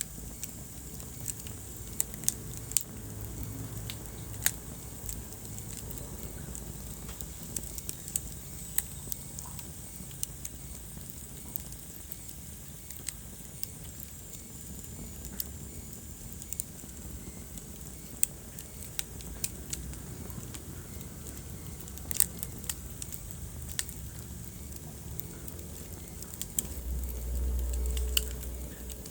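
Wood fire crackling, with irregular sharp pops and snaps over the low, steady rumble of the flames; the rumble swells briefly near the end.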